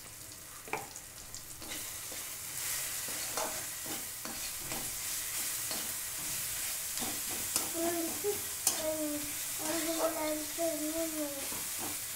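Tomatoes, onion and spices frying in oil in a kadhai, sizzling while a metal spatula stirs and scrapes the pan with short clicks; this is the masala being fried until the tomatoes soften and break down. The sizzle grows louder about two seconds in, and a wavering tone sounds faintly in the background over the second half.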